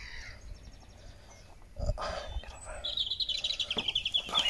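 A small bird trilling: a rapid run of high chirps lasting about a second and a half near the end, with fainter chirps earlier. A single knock about two seconds in.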